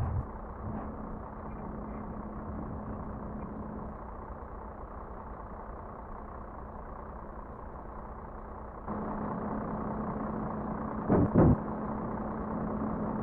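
Truck engine running steadily at idle, a little louder from about two-thirds of the way in, with two short loud bursts a couple of seconds before the end.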